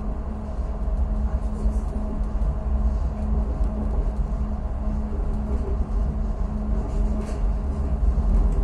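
Push-pull passenger train running along the track, heard from inside the carriage: a steady low rumble with a constant hum.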